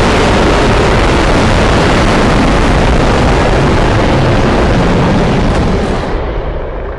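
A designed monster-roar sound effect: one long, loud, rough noise with heavy rumble underneath, holding steady, then losing its hiss and fading out near the end.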